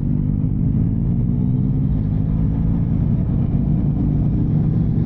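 Motorcycle engine running steadily while riding, a low drone that holds a fairly even pitch.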